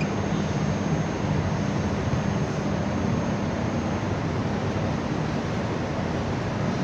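Steady background rush of noise with a low hum underneath, unchanging throughout.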